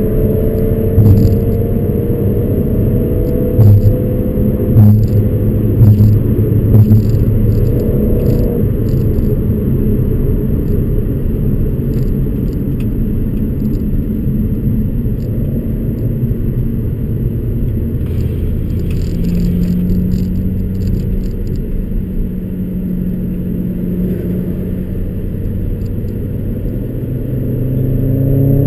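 Audi S4's 4.2-litre V8 with aftermarket headers and free-flow exhaust running under way: a deep steady drone whose pitch shifts in the first several seconds, settling into an even cruise, then rising as it accelerates near the end. A few loud knocks come in the first seven seconds or so.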